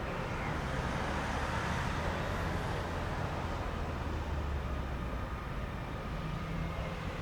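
Steady low rumble and hum of a train running at the station platform, with no sharp events.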